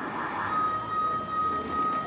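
A car alarm starts up, setting off in the lull between firework bursts: one steady electronic tone that begins about a quarter of the way in and holds, over a background of outdoor noise.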